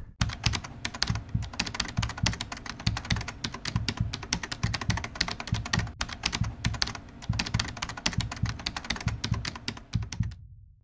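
Raindrops striking a hard surface: a dense, irregular run of sharp ticks that starts and stops abruptly.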